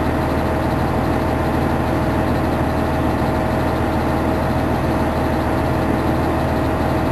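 Fire engine's engine running steadily, heard from inside the cab, with a thin steady tone over the low hum.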